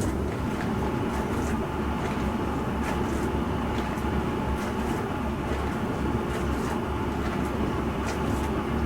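Bosch Serie 4 SMS46MW05G dishwasher running mid-cycle: a steady low hum with a faint whine and light irregular ticks over it.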